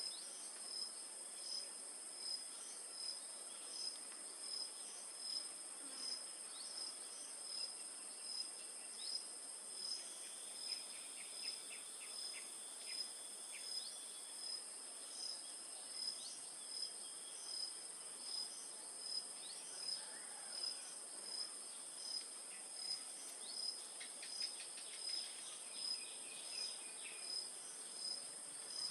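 Steady high insect drone with a thin, high chirp repeating evenly about once a second throughout, typical of crickets, and a few faint short calls scattered through it.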